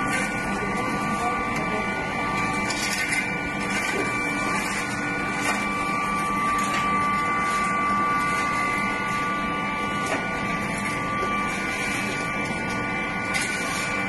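Steady drone of bell-foundry machinery running, with a constant high whine over it and a faint murmur of voices.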